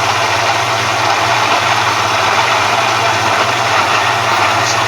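Electric blender running steadily at full speed, puréeing chopped peppers, ginger, garlic and onion with a little water: a constant low motor hum under an even whirring rush.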